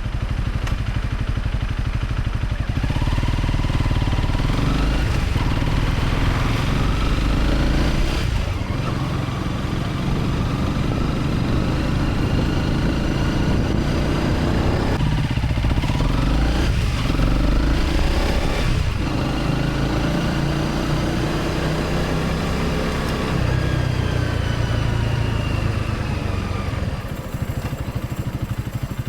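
Honda CRF250 Rally's single-cylinder engine under way. The engine note climbs in pitch as it accelerates and breaks off briefly at several gear changes, over steady low rumble.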